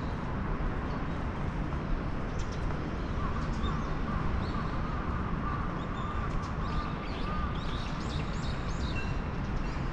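Small birds chirping now and then over a steady low rumble of city and wind noise, with a thin wavering tone for a few seconds in the middle.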